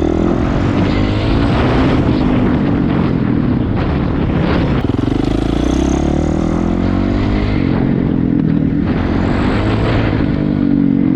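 Honda CRF450R's four-stroke single-cylinder engine running under riding load, revs rising and falling, with a faint high whistle that comes on under acceleration. The rider suspects an air leak, though it may also be the carburetor.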